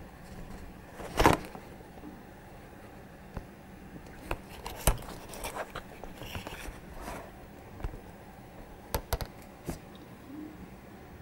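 Irregular scattered clicks, knocks and scrapes over a low steady background, the loudest a short scraping knock about a second in.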